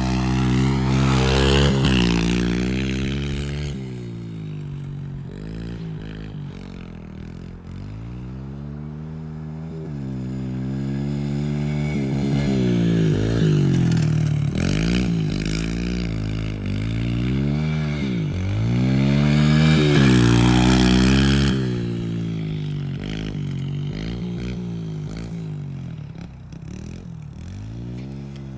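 Yamaha TT-R110 dirt bike's small four-stroke single-cylinder engine revving hard on and off, its pitch climbing and dropping repeatedly as the rider accelerates, shifts and backs off. It is loudest near the start and again about two-thirds of the way through.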